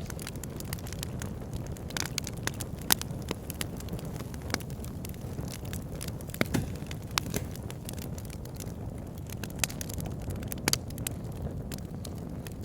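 Wood logs burning in a log burner, crackling with irregular sharp pops and snaps over a steady low rumble of the flames.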